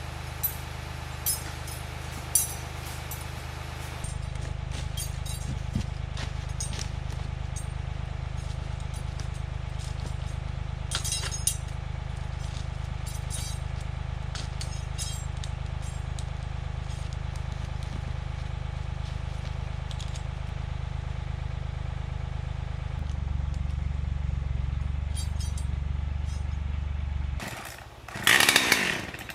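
Engine idling steadily, its speed picking up about four seconds in and again a few seconds before the end, with light metallic clinks over it. It stops near the end, followed by a brief loud burst.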